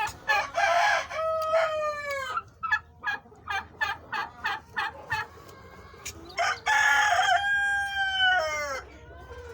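Chukar partridge calling: two long, drawn-out notes falling in pitch, one at the start and one near the end, with a run of short clucks between them, about three a second.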